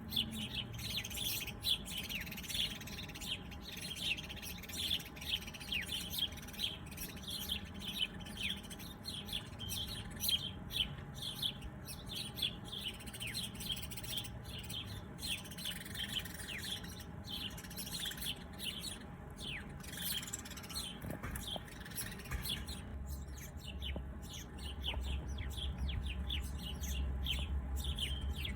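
Many small birds chirping together: a dense stream of short, quick down-sweeping chirps that thins out in the last few seconds, when a low rumble comes in underneath.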